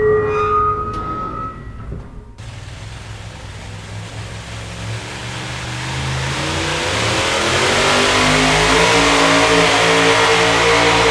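A motor engine revving up: its note climbs over a few seconds and then holds high and loud. It comes after a short tonal sound that cuts off abruptly about two seconds in.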